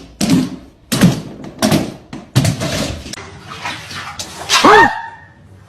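A dog barking several times in short sharp barks, with a louder, drawn-out pitched bark near the end.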